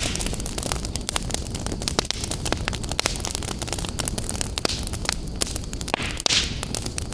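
Wood fire burning in a fireplace: a dense, irregular run of crackles and pops over a steady low rumble, with a brief hiss about six seconds in.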